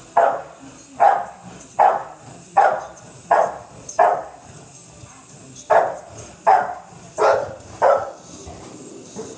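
Dog barking in a steady string, about one bark every three-quarters of a second, with a short break about halfway through.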